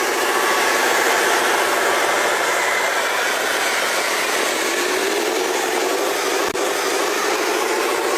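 Radio-controlled model truck running, a steady whine that rises slightly in pitch about halfway through, with a brief click about two-thirds of the way in.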